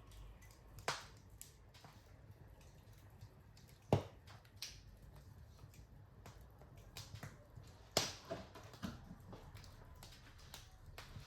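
Wood fire crackling in a fireplace: scattered sharp pops over a faint low rumble. The loudest pop comes about four seconds in, and another about eight seconds in, followed by a quick run of smaller crackles.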